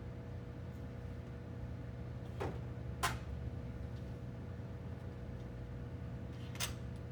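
A steady low hum with three short knocks, about two and a half seconds in, at three seconds, and near the end.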